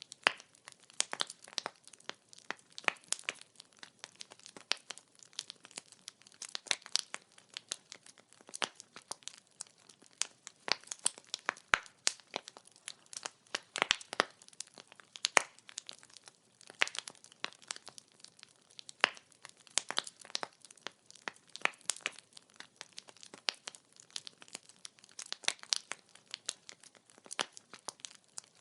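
Wood fire crackling: firewood burning with a dense, irregular stream of sharp pops and snaps, some louder than others, over a faint hiss.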